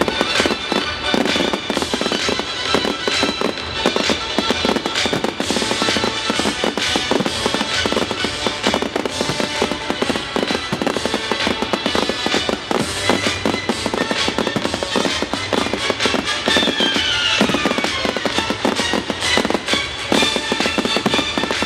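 Fireworks display: a dense, continuous barrage of bangs and crackling from shells going off in quick succession, over music played for the show.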